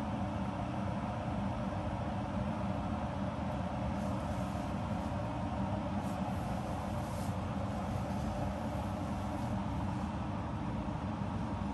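Ovente 1.7-litre cordless electric kettle heating water, giving a steady rumbling hiss as the water works towards the boil.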